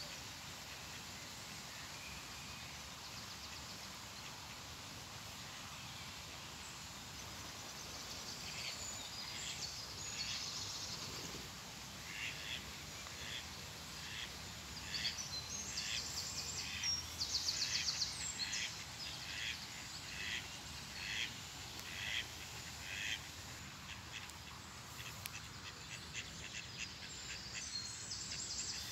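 Outdoor birdsong over a steady background hiss. Through the middle, one bird repeats a short call about one and a half times a second. Bursts of high chirping come around a third of the way in, in the middle and near the end.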